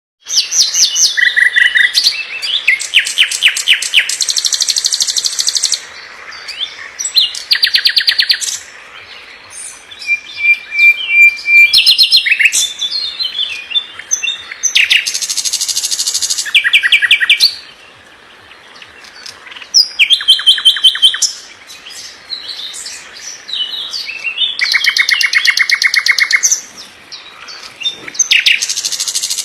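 Nightingale singing a fast, dense song: phrases of rapid repeated notes and trills, each a second or two long, separated by short pauses.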